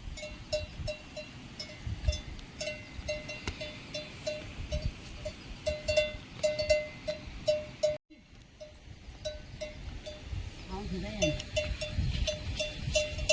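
Livestock bells clanking in a steady rhythm of about three strokes a second, as from an animal walking, with lighter jingling on top. The sound drops out for an instant just past the middle, and a short call sounds near the end.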